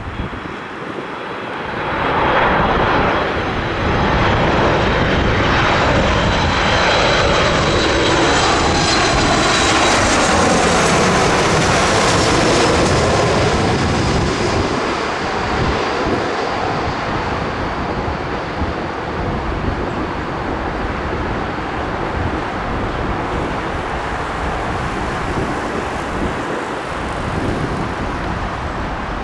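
An airliner passing low overhead, its engine whine sweeping down in pitch as it goes by, followed by a steady rumble of engine noise.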